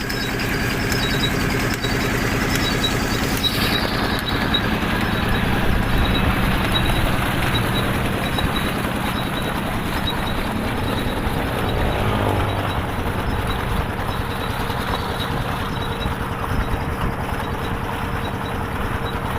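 A 20 hp diesel engine running steadily, driving a tubewell turbine water pump.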